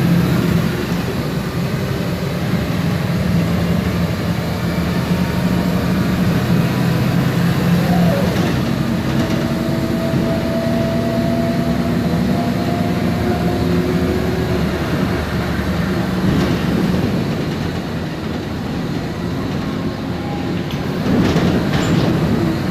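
MAN Lion's Classic city bus under way, heard from inside: its MAN E2876 six-cylinder CNG engine drones steadily with the ZF Ecomat 6HP504C six-speed automatic gearbox. About a third of the way in, a thin whine rises slowly in pitch for several seconds. Near the end there are a few short knocks and rattles.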